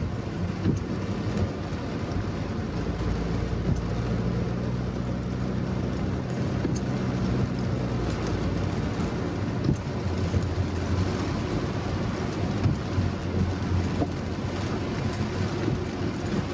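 A car moving on a rain-soaked road in heavy rain: a steady low engine hum under the hiss of tyres and rain.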